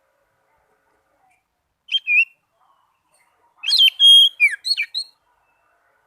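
Oriental magpie-robin (kacer) singing: a short two-note whistle about two seconds in, then a quick phrase of whistled notes with a held note and several downward slides.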